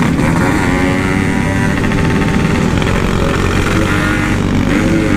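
Yamaha RX-King's two-stroke single-cylinder engine running under way through a loud aftermarket exhaust, its pitch climbing and easing slightly with the throttle.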